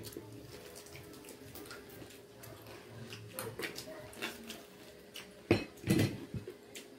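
Crackling crunches and mouth noises of biting into and chewing deep-fried crispy pork leg skin, with scattered small clicks and two louder crunches near the end.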